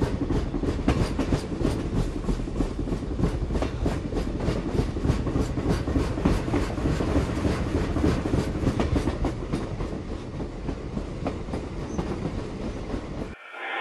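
Train wheels clacking over rail joints over a steady low rumble, a regular run of clicks that slows down toward the end. The sound cuts off suddenly shortly before the end.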